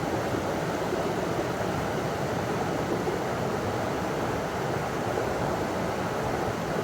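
River water pouring over a small waterfall, a steady, even rushing.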